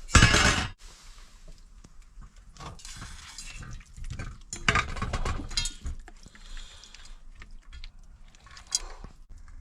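Clinking and rustling of food containers and packaging being handled, in scattered bursts. It opens with a short loud rustle and has a sharp click near the end.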